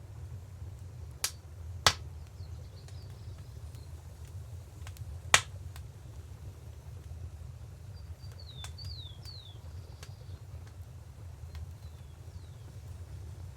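Wood fire crackling with a few sharp pops, over a steady low rush of river water. A bird gives a few short falling chirps about eight to nine seconds in.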